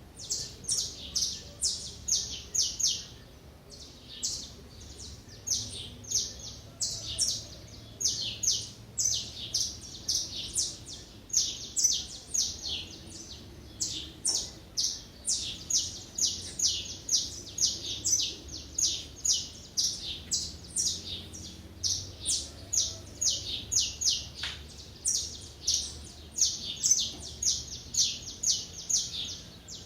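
Small songbirds chirping without pause: short, high chirps in quick runs of several a second.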